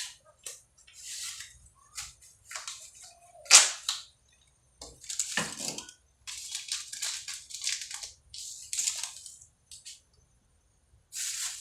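Kitchen handling noises: a run of irregular clatters, scrapes and rustles, with the loudest a sharp knock about three and a half seconds in.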